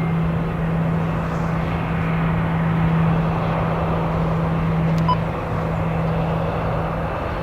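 Jet aircraft engine noise: a steady drone with a constant low hum running underneath, holding level without rising or falling.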